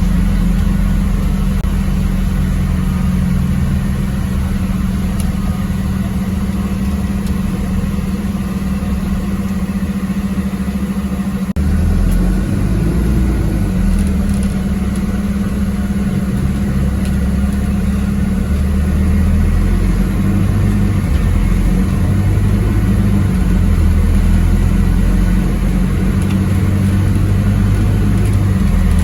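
MAZ-206 city bus engine running as the bus drives, heard from on board; the engine note changes about twelve seconds in.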